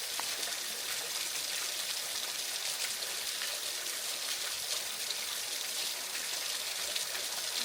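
Steady rush of flowing water in a woodland stream, an even hiss with no changes.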